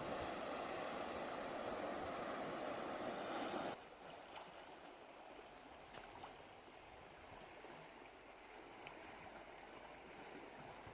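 Steady rushing water, a dense even wash for about the first four seconds. It then drops abruptly to a quieter, steady wash with a few faint ticks.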